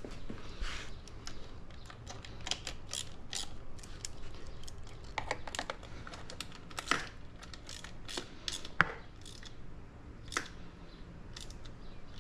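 Irregular light clicks and taps, the sound of hand work with tools and plastic parts on a dirt bike, with no steady rhythm and a few sharper knocks about seven and nine seconds in.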